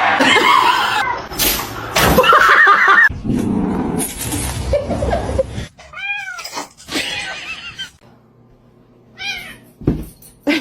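Domestic cats meowing and yowling. Loud, noisy sounds fill the first few seconds, then two separate meows rise and fall in pitch, one just past the middle and one near the end.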